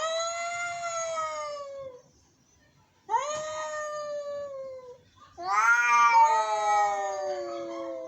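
Cats caterwauling: three long, drawn-out yowls, each rising at the onset and then sliding slowly down in pitch, with short pauses between them. The last yowl has a second call overlapping it. This is the sound of angry cats.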